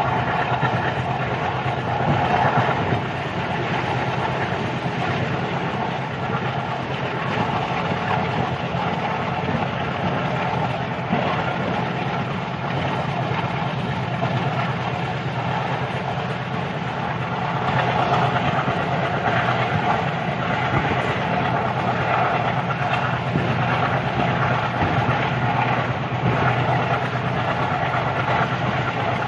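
A train running at speed, heard from inside a coach at the window: the steady running noise of its wheels on the rails, a little louder from about eighteen seconds in.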